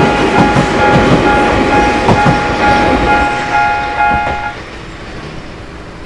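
Sangi Railway train passing over a level crossing, wheels clacking over the rail joints, while the crossing's warning bell rings in a steady broken tone. Both end about four and a half seconds in, leaving a lower background.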